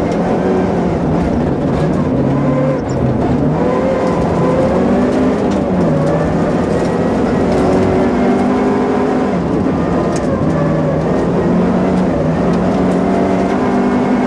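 Opel Kadett GSi 16V rally car's 2.0-litre 16-valve four-cylinder engine at racing pace, heard from inside the cabin. The revs climb and drop again and again through gear changes and corners, over steady road noise from the tyres on snow.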